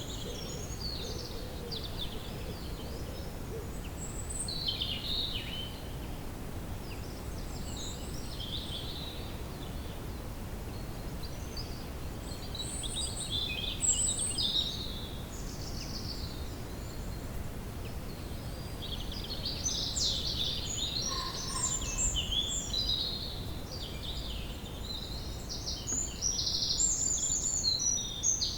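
Forest ambience: several songbirds chirping and warbling over a steady low background rumble. The calls grow busier about two-thirds of the way through, ending with a fast repeated trill.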